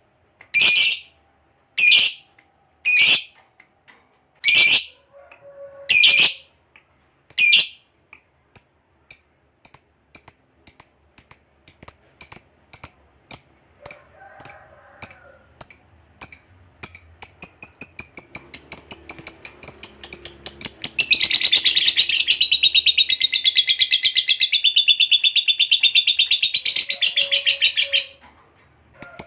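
Lovebird calling. Harsh single shrieks come about once a second, then give way to quickening chirps that run together into a long, unbroken chattering trill (the 'ngekek panjang') lasting about seven seconds. The trill stops abruptly near the end.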